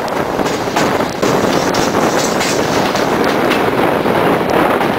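Passenger train running at speed, its wheels clattering over rail joints and the switches of a station track layout in a series of irregular sharp clicks over a steady rush of wheel and air noise.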